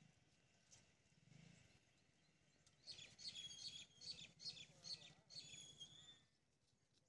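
Near silence, broken in the middle by a bird giving a run of quick, high chirps for about three seconds.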